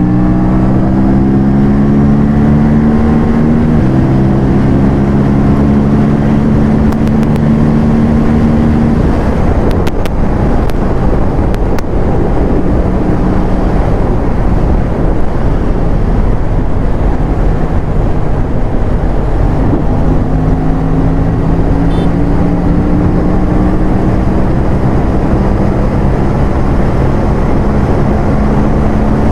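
Aprilia parallel-twin sport bike engine running on the move, with heavy wind rush over the microphone. The engine note holds fairly steady with a step about four seconds in, is mostly buried under the wind rush through the middle, then climbs slowly in pitch in the last part.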